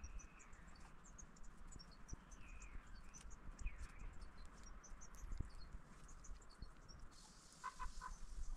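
Small birds chirping and calling, faint, with many short high chirps and a few gliding calls, over a low rumble.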